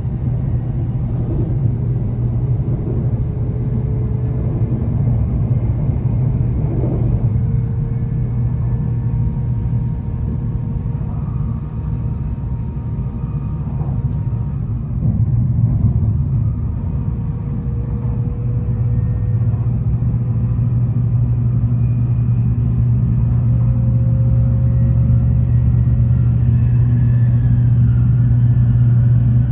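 Tokaido Shinkansen train running at speed, heard from inside the passenger car: a steady deep rumble with faint whining tones that drift slowly up and down in pitch.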